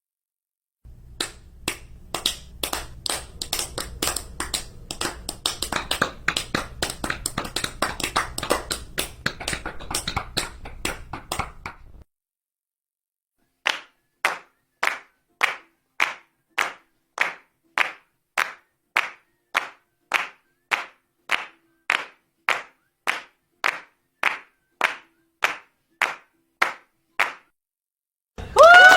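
Hand clapping. First comes rapid, uneven clapping over a low hum, which stops about twelve seconds in. After a short pause, slow, even claps follow at about two a second for some fourteen seconds. Just before the end, loud crowd applause and cheering starts.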